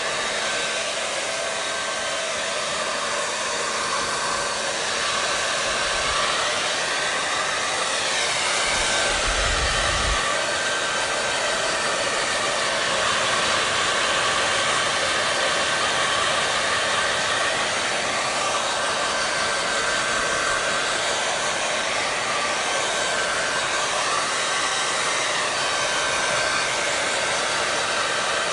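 Hair dryer running steadily: an even, loud rush of air with a faint constant whine, its tone shifting slightly now and then.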